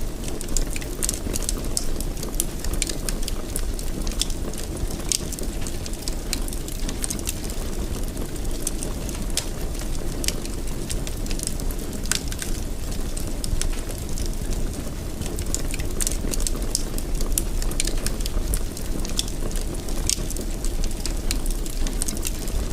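Wood fire in a fireplace crackling, with frequent sharp little pops and snaps over a steady low rumble of the flames.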